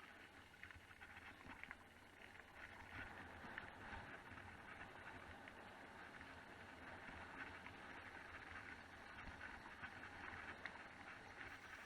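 Faint, steady crackling hiss of mountain bike tyres rolling over a wet, muddy trail, with small splashes and clicks.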